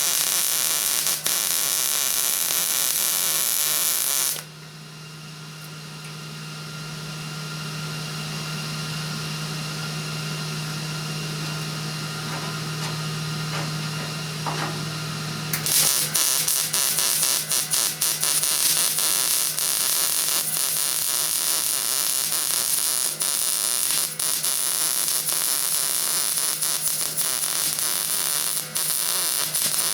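Welding arc crackling and buzzing on steel in two long runs. Between them, for about eleven seconds, only a steady low hum is heard.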